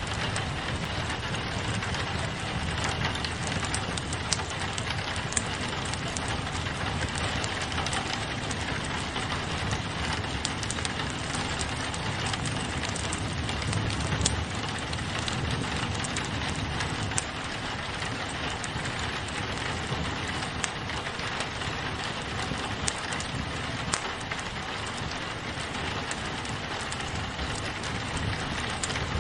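Steady rain on a window mixed with a crackling fireplace: a constant hiss of rain with scattered sharp pops and crackles from burning wood, over a low rumble.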